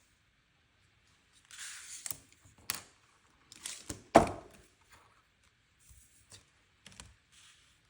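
Paper and stickers being handled over a planner: short rustles between light taps and clicks, with one sharper knock about four seconds in, the loudest sound.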